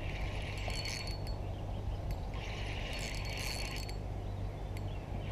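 Fishing reel clicking in two spells of about a second each, with a pause between them, as a hooked carp is played: the reel's drag and ratchet working while the fish is fought.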